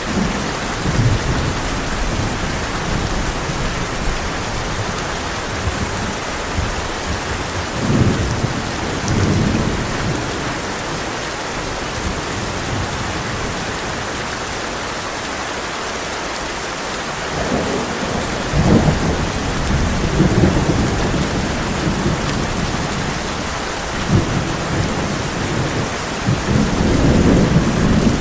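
Heavy rain drumming steadily on a tin roof, with rolling thunder rumbling in several low swells, the strongest about two-thirds of the way in and again near the end.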